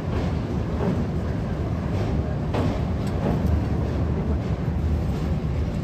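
Ananya Express passenger train running: a steady low rumble with a few faint, irregular knocks from the rails.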